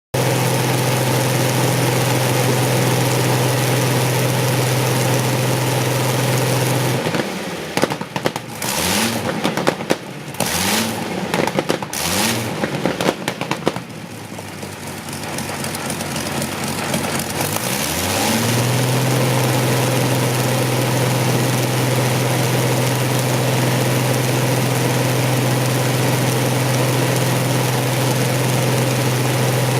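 Rolls-Royce Griffon V12 aero engine running at a steady speed. About seven seconds in it breaks up into sharp pops and several quick rising surges of revs. After about eighteen seconds it settles back to a steady run.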